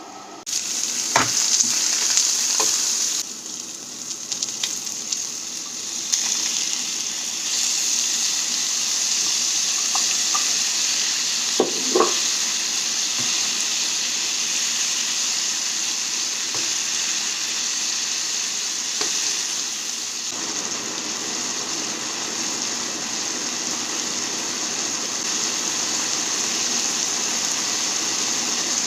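Food frying in hot oil in a pan, a steady sizzle that starts suddenly about half a second in, with a few clinks of a utensil against the pan.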